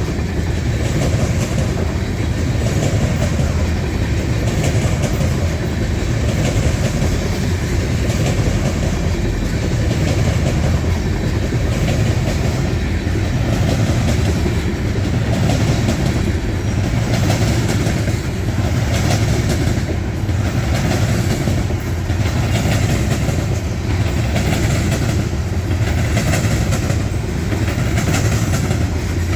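Loaded grain train of covered hopper cars rolling steadily past, its wheels clicking over the rail joints in a regular repeating rhythm over a continuous rumble.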